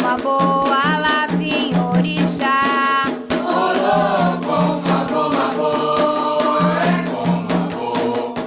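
Devotional chant for Xangô, sung over drums and percussion keeping a steady beat. A single lead voice sings at first; about three seconds in, a group of voices takes over.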